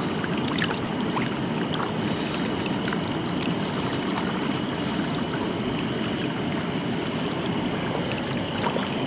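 Mountain stream water rushing steadily over rocks, with a few faint ticks.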